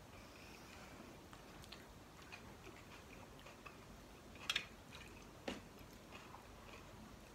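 Faint chewing and soft mouth sounds of people eating rice and kidney-bean curry by hand, with two sharper clicks about a second apart a little past halfway.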